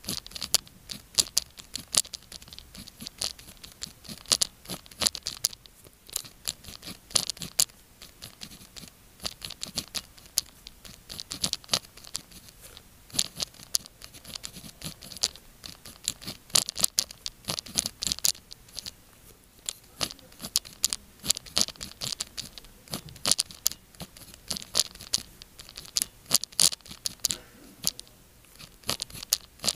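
Pen writing on paper, close-miked: quick, irregular scratching strokes and small taps of the nib, several a second, with short pauses between clusters.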